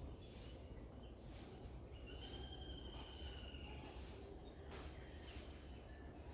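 Garden insects droning: a steady high-pitched tone with regular pulses under a second apart, over a low outdoor rumble. A single thin, slightly rising whistle, likely a bird, sounds for about a second, about two seconds in.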